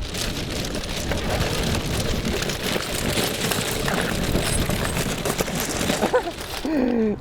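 All-terrain skateboard tyres rolling over rough ground, a continuous crackling, crunching rattle. A voice comes in near the end.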